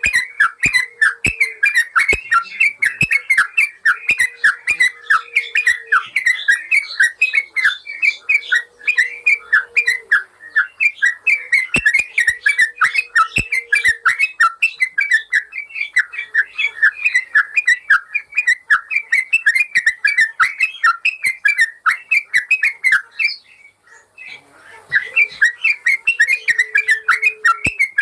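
Yellow-vented bulbul (trucukan) singing a fast, continuous run of short, chattering whistled notes, with a brief break about three quarters of the way through.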